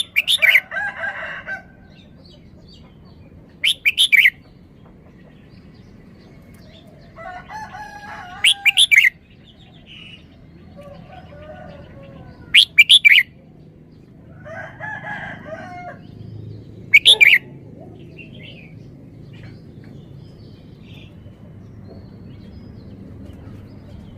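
Red-whiskered bulbul singing: a series of short, loud, sweet song phrases, one every two to three seconds, with quieter pauses between.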